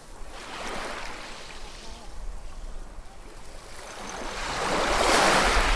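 Ocean waves washing onto the shore: a smaller wash about half a second in, then a bigger wave builds and breaks loudly near the end.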